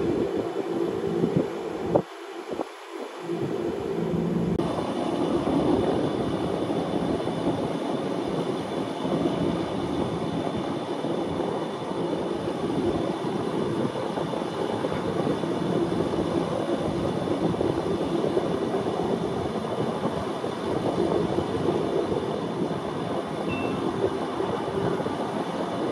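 Wengernalpbahn narrow-gauge rack railway train running, a steady rumble and rattle of wheels on the track. A single sharp clunk sounds about two seconds in.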